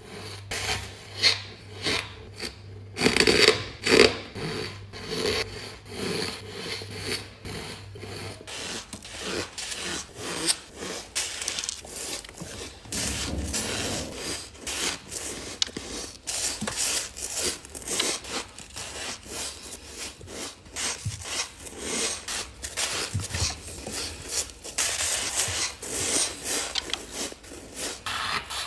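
Ice being bitten and chewed close to the microphone: a quick, continuous run of crisp, gritty crunches. A low hum sits under the first third and stops abruptly.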